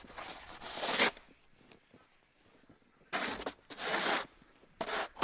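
Footsteps crunching in deep, very cold snow: a long crunch at the start, then three shorter ones about two-thirds of a second apart near the end.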